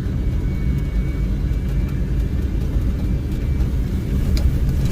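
Diesel pickup truck running with a steady low rumble as it drives down a steep snowy trail, with a single click about four and a half seconds in.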